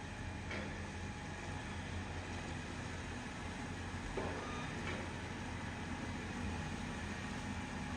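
Heavy construction machine's engine running steadily, a low rumble with a few faint brief clanks or squeaks over it.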